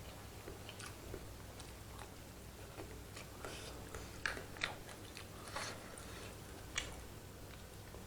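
A person eating instant curry noodles: chewing and mouth noises with scattered short, sharp clicks, the loudest few coming between about four and seven seconds in.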